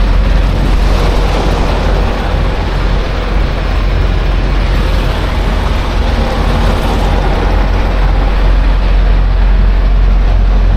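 Semi-truck's diesel engine running at low speed while the tractor-trailer is backed: a steady deep rumble with a broad hiss over it.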